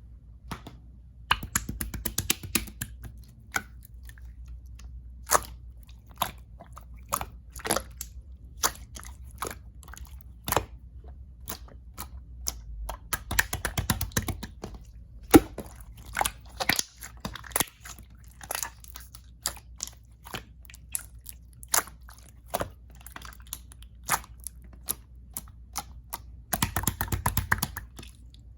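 Clear slime being pressed and stretched by hand, giving irregular sharp clicks and pops from trapped air, with busier runs about two seconds in, in the middle and near the end.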